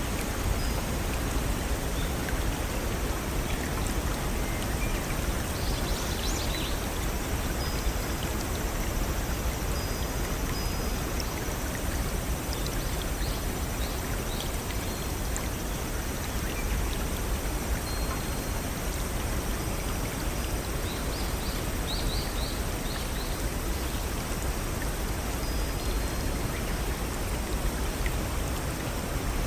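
Water rushing steadily down a brook's small waterfalls, with brief clusters of high bird chirps three times.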